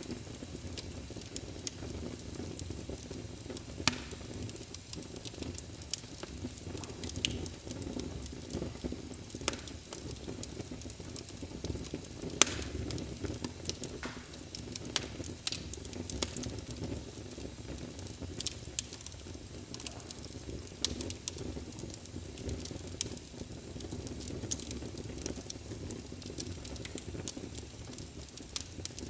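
Wood fire burning in a fireplace: a steady low rumble of flames with frequent sharp crackles and pops, the loudest pop about twelve seconds in.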